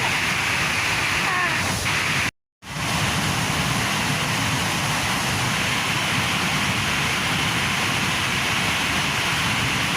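Steady rushing noise of a large waterfall close by, cut off by a brief total dropout about two and a half seconds in before it resumes.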